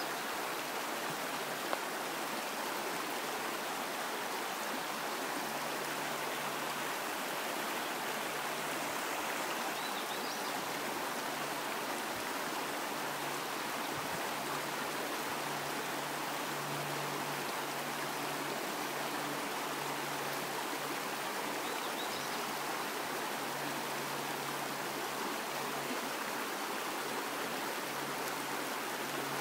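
Small mountain stream running over rocks: a steady, even rush and babble of water.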